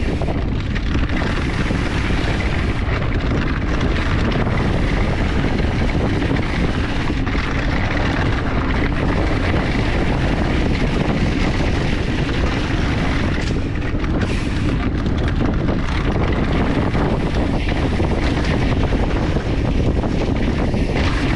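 Mountain bike riding fast on a rough dirt trail: a steady rush of wind on the microphone with the tyres and bike rattling over the ground.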